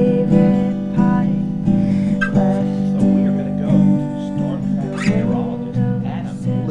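Ovation acoustic guitar strummed with a voice singing held notes over it.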